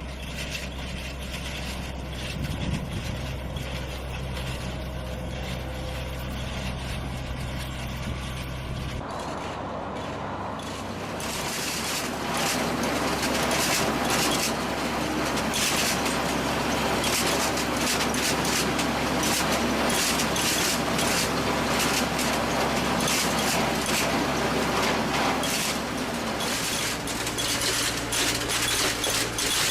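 Heavy farm machinery running: a steady low engine drone, then about nine seconds in a switch to a louder machine that clatters with rapid knocks and rattles.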